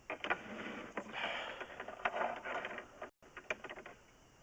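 Irregular mechanical clicking and rattling from a sewer inspection camera's push cable being fed along a cast iron drain line, in uneven bursts that fade after about three seconds.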